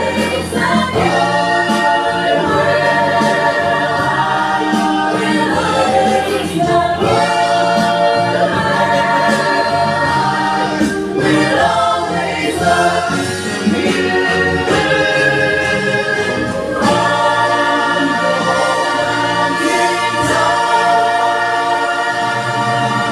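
Music with a choir singing long held chords over accompaniment.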